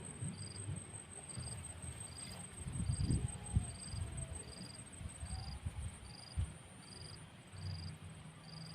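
Crickets chirping: a short high chirp repeated evenly about one and a half times a second over a steady high insect whine, with wind rumbling on the microphone, strongest about three seconds in.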